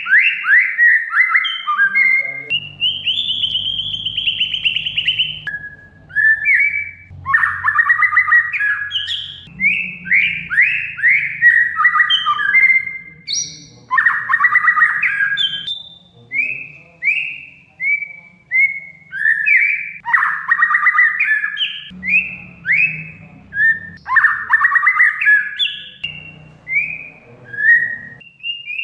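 Oriental magpie-robin (kacer) singing a rapid, continuous song of short downward-sweeping whistled notes in quick phrases, with one long held higher note a few seconds in.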